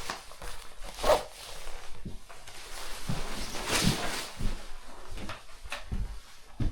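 Rustling and handling of clothing and gear, with zipper-like rasps and a few sharp knocks, the loudest about a second in and again around four seconds.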